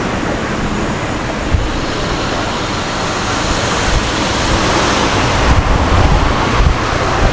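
Busy city street ambience: a steady rush of traffic and street noise with low wind buffeting on the microphone, the hiss swelling for a couple of seconds past the middle.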